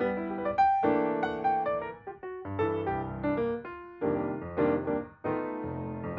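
Background piano music, a melody of separate notes played at a moderate pace.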